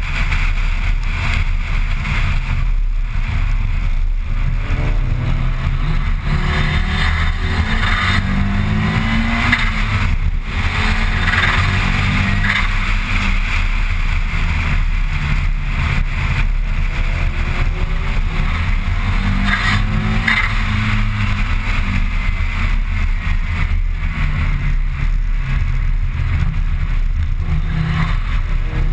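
Mitsubishi Lancer Evolution IX's turbocharged four-cylinder engine heard from inside the cabin while driving, its note rising in pitch several times as the car accelerates through the gears. Steady road and wind noise runs underneath.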